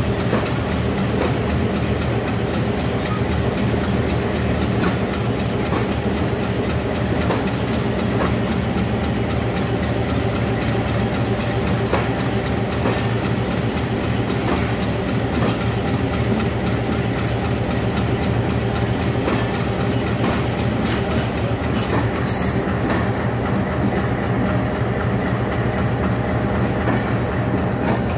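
Passenger coaches rolling past on the track, their wheels clattering steadily over the rails with a continuous rumble.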